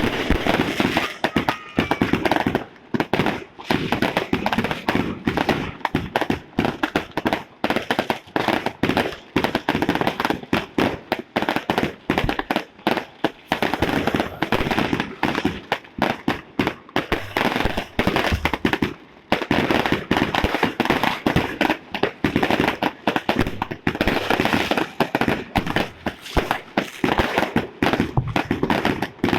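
Fireworks and firecrackers going off in a dense, continuous barrage of sharp bangs and crackles, many overlapping with no pause.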